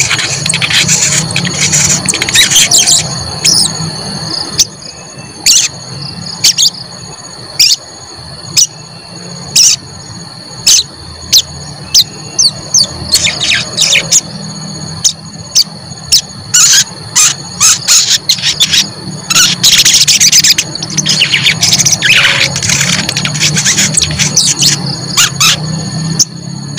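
A sogon songbird calling in quick, sharp 'cuit cuit' chirps, in irregular clusters with short pauses between them. A steady high tone and a low hum run underneath.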